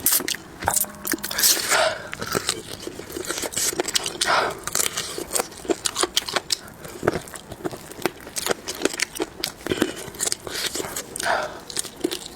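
Close-up gnawing and chewing on spicy marinated chicken feet: irregular crunchy clicks of cartilage and tendon between the teeth, with a few wet mouth noises.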